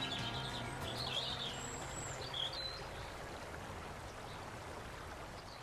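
Outdoor ambience: a steady hiss with birds chirping a few times, as a music track fades out at the start.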